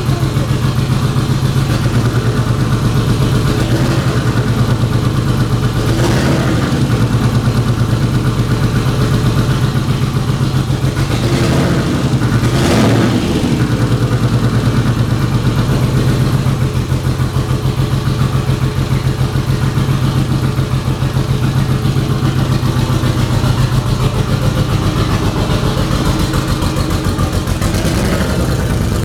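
Freshly swapped Mitsubishi twin-turbo 3.0 V6 (VR-4 drivetrain) running on its first start-up, idling steadily with a short rev about six seconds in and two more near the middle.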